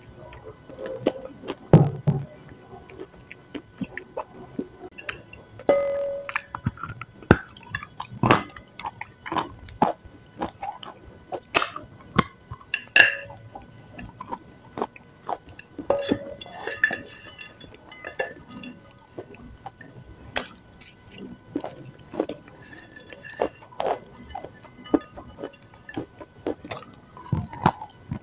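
A person eating: irregular crisp crunches and wet mouth sounds from biting and chewing a white chalk-like lump and a dark wet clay paste.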